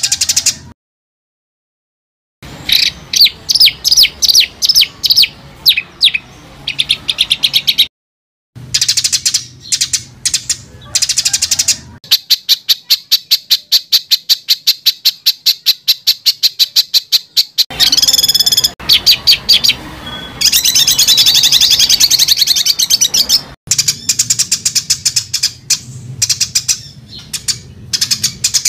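Songbird song edited for tutoring competition birds: harsh, rapid repeated notes ('tembakan'), spliced from several clips with abrupt cuts, including a brief silence about a second in and a long, fast run of evenly repeated notes in the middle.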